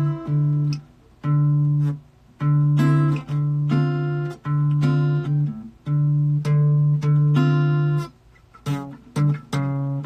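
Guitar chords played in short phrases that stop and start again about every second, as the player works back through a part she can't quite remember.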